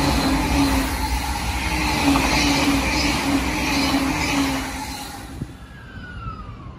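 E259 series Narita Express passing at speed: steady rail and running noise with a low hum, fading about five seconds in. Near the end, a fainter whine falling in pitch as an E217 series train slows into the platform.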